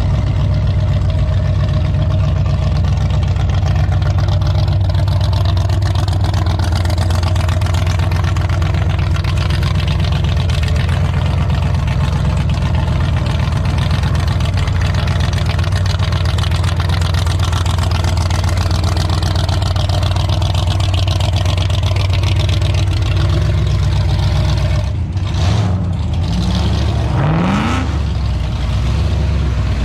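Car engine running with a steady low rumble, with a short rev that rises in pitch near the end.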